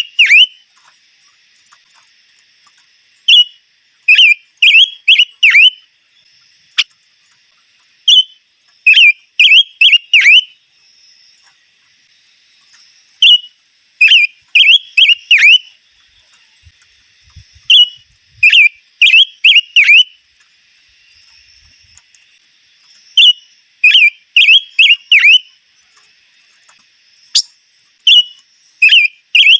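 A songbird singing loud phrases of three to five sharp, whistled notes that sweep downward, each phrase a second or two long and repeated every few seconds. A faint, steady high-pitched hum runs underneath.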